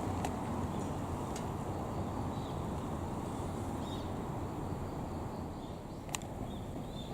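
Outdoor ambience: a steady low rumble with short, high bird chirps scattered through it, and a few sharp clicks, the loudest about six seconds in.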